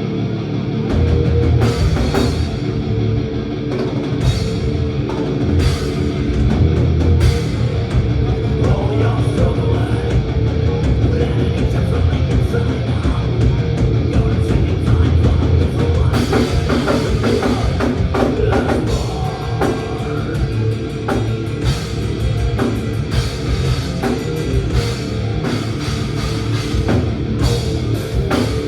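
Thrash metal band playing live: distorted electric guitars, bass and a drum kit, with the drums kicking in about a second in and driving on without a break.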